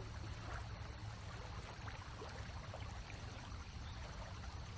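Faint water trickling and lapping over a steady low hum and hiss.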